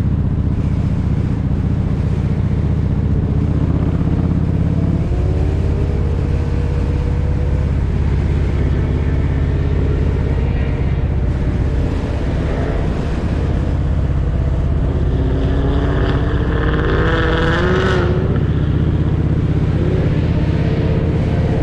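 Kawasaki Vulcan 1700 Voyager's V-twin engine running steadily at road speed, heard from on the motorcycle, with a shift in engine pitch about five seconds in. Around three-quarters of the way through, a higher-pitched engine whine rises and wavers for a few seconds.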